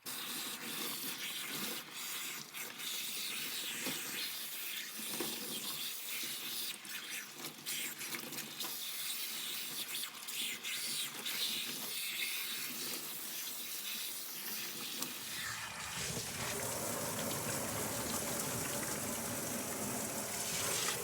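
Running water from a tap or shower, broken up with splashing as hair is rinsed under it. About three-quarters of the way through, the flow becomes a steadier, fuller rush.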